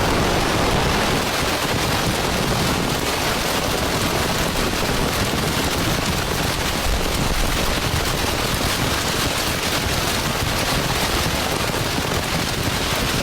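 Heavy downpour, a steady dense hiss of countless rapid drops drumming on a surface.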